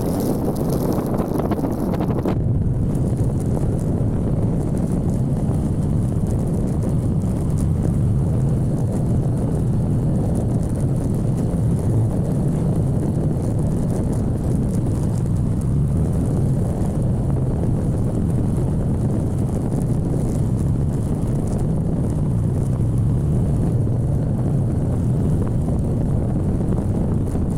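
Steady low wind rush and engine drone from a motorcycle being ridden. A higher hiss cuts off abruptly about two seconds in.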